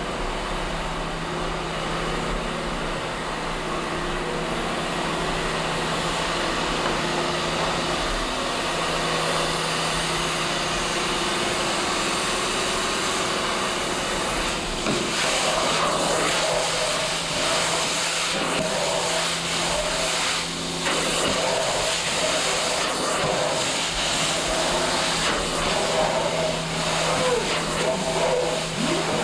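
Steady machine drone with a constant low hum, with faint voices in the background from about halfway.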